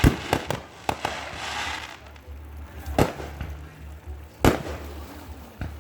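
Fireworks going off: a quick run of sharp bangs at the start, a crackling hiss about a second in, then single loud bangs about three seconds in, about four and a half seconds in, and near the end. A steady low hum runs underneath.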